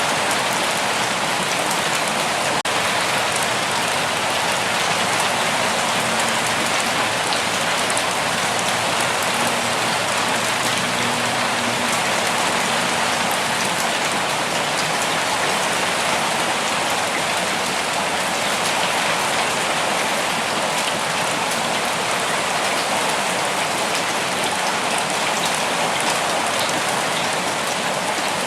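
Steady rain falling on foliage and the ground, an even hiss of many drops that holds unchanged throughout.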